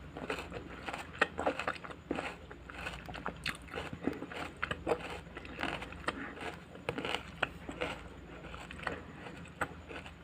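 Crisp crunching and chewing of raw garden salad vegetables, heard close up as many short, irregular crunches.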